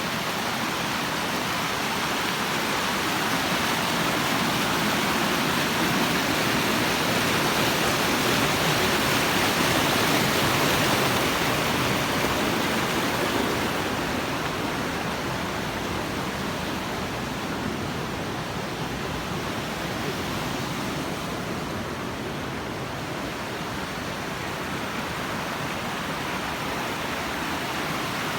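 River water rushing steadily, a dense even roar of flowing water that swells a little then eases slightly about halfway through.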